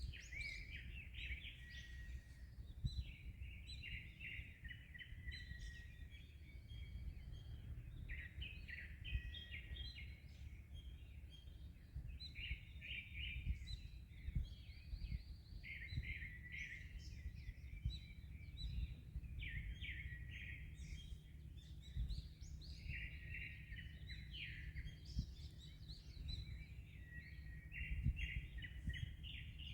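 Small birds chirping and twittering in quick repeated clusters over a steady low rumble of wind and sea.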